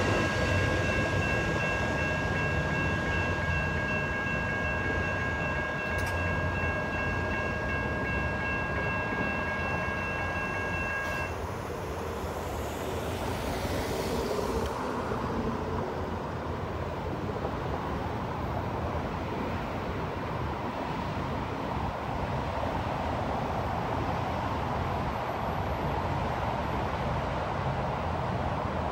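Amtrak Coast Starlight's Superliner cars rolling away down the track, a steady fading rumble. A grade-crossing warning bell rings steadily and stops about eleven seconds in, after which a car drives across the tracks.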